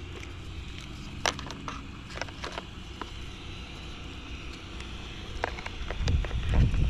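Scattered small clicks and knocks of hands handling RC car parts and a strap while fitting a cooling fan, with low wind rumble on the microphone from about six seconds in.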